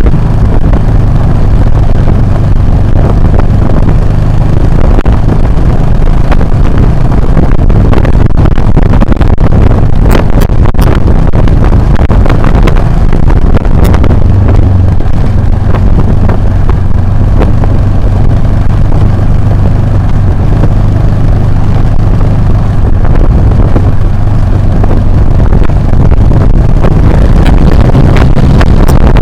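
Motorcycle engine running steadily while riding, with wind noise on the action camera's microphone and a few sharp clicks about ten and fourteen seconds in.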